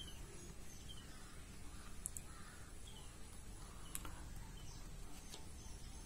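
Faint bird calls, short chirps about once a second and some lower calls, over a steady low background rumble, with a few soft clicks.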